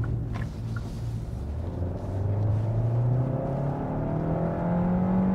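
Kia K5 GT-Line's 1.6-litre turbocharged four-cylinder engine heard from inside the cabin as the car accelerates, its drone rising steadily in pitch from about two seconds in. Very noisy: the small engine comes through plainly into the cabin.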